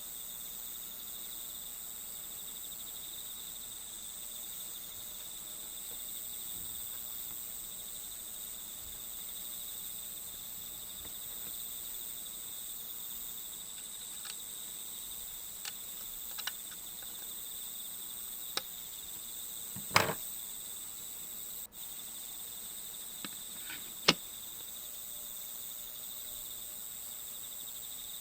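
Steady high cricket chirring throughout, with a few scattered sharp clicks and taps, the loudest two about twenty and twenty-four seconds in.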